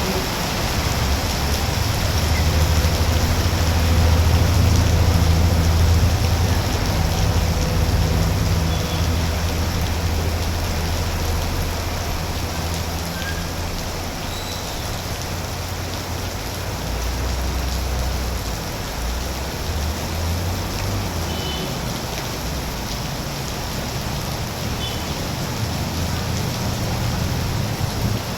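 Heavy rain falling steadily in a continuous hiss, over the low rumble of road traffic that swells as vehicles pass, loudest a few seconds in and again around the middle.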